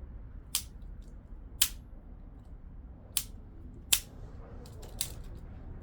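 A circuit breaker on a microwave-oven-transformer rig being switched repeatedly, giving five sharp snaps about a second apart as it arcs on switching, over a low steady hum.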